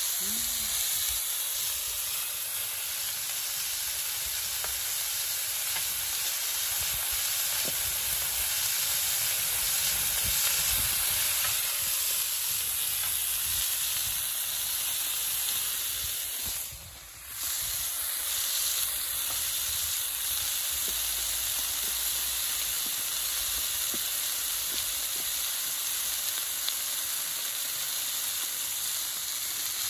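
Pork belly sizzling steadily on a hot iron griddle over a wood fire. The hiss briefly drops away for about a second a little past the middle, then carries on.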